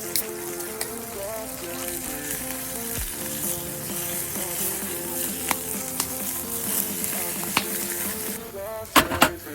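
Food sizzling and frying in hot oil over a camp fire, a steady crackling hiss with a few sharp clicks, the loudest a quick cluster near the end.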